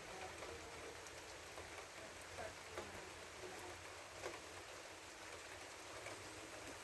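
Faint rain falling, an even hiss with individual drops ticking now and then.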